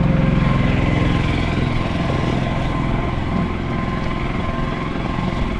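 Road traffic, with motor vehicle engines running steadily.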